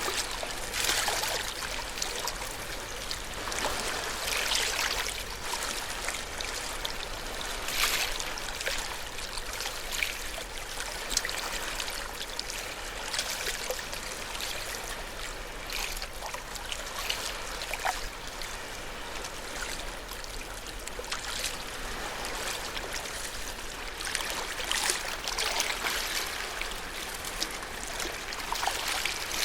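Small ocean waves washing in and draining back over the shore: a continuous watery swish that swells every few seconds, with small splashes and trickles.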